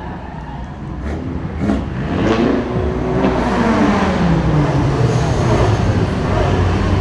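A car engine revving and accelerating, growing louder from about two seconds in, its pitch climbing and then holding steady. Two short sharp pops come before that.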